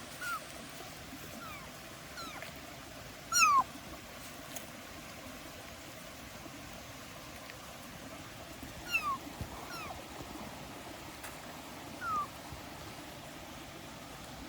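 Kitten meowing: several short, high-pitched meows that fall in pitch, spaced out, the loudest about three seconds in.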